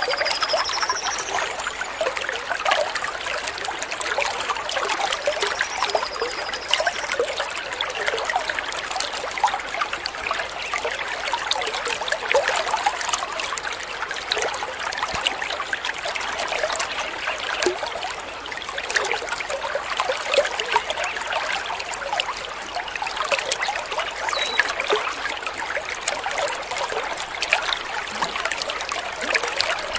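Water trickling and burbling steadily over stones, like a small stream. A few faint, short high bird whistles come through: one rising at the very start, one about six seconds in, and another about two-thirds of the way through.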